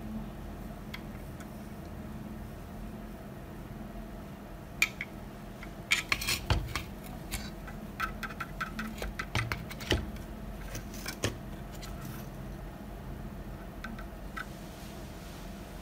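Small metal tools and parts clinking and clicking as they are handled on a workbench, in a burst of sharp knocks and light metallic rings about five seconds in that dies away a few seconds later, over a steady low hum.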